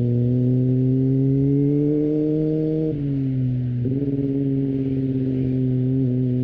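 Kawasaki ZX-25R's 250cc inline-four engine through an Akrapovic exhaust, heard onboard: the pitch climbs under acceleration, then drops sharply twice about three and four seconds in as it shifts up, and settles into a steady cruise.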